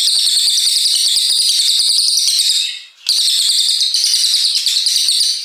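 Cililin coklat singing a long, rapid, high-pitched run of notes. It breaks off briefly about three seconds in, starts again, and cuts off abruptly at the end.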